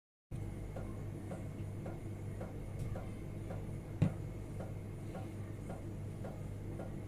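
Steady, even ticking, about two ticks a second, over a low hum, with one sharper, louder click about four seconds in.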